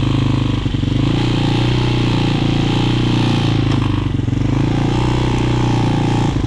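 Hawk 250cc motorcycle engine running steadily under way, with slight dips in level about a second in, around four seconds and near the end.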